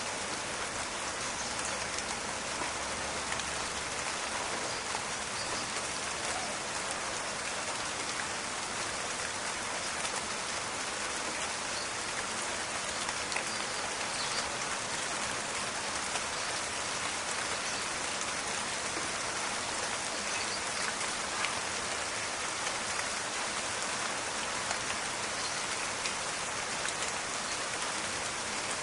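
Steady rain falling in a forest, a dense crackle of individual drops over an even hiss.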